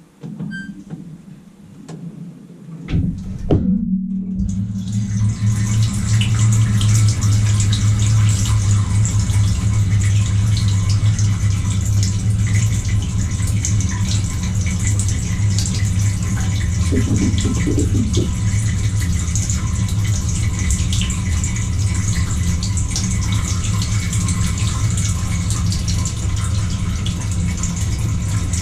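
GE GDT655SSJ0SS dishwasher starting its wash: a few knocks in the first few seconds, then about four seconds in the wash pump comes on with a steady low hum and water spraying inside the tub. The lower spray arm is not spinning, a fault the owner traced to the orange valve ball in the arm's nozzle stuck with gunk.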